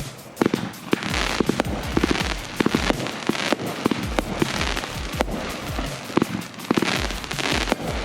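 Consumer fireworks going off in quick succession: many sharp bangs and crackling, hissing bursts, over background music with a steady deep beat.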